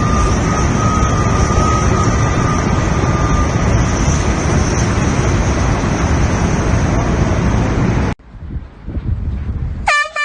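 Loud, steady rushing noise with a faint high whine, cutting off abruptly about eight seconds in. Just before the end an air horn starts to blast.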